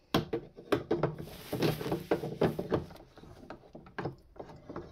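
Metal espresso portafilter clunking and scraping against the group head of a Breville Barista Max as it is pushed and twisted, failing to lock in because it is not going in straight. About half a dozen irregular knocks.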